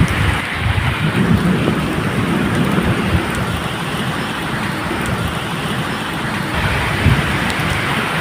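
Steady medium rain falling, with low rolling thunder rumbling beneath it and swelling about a second in and again near the end.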